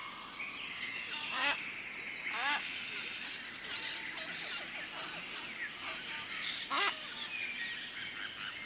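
Several birds calling in short repeated calls, with the loudest calls about one and a half, two and a half and seven seconds in. A steady high-pitched tone runs underneath.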